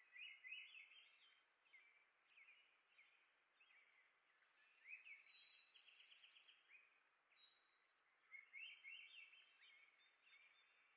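Small songbirds chirping faintly in quick clusters of short notes, with a fast run of repeated notes around the middle, over a low background hiss.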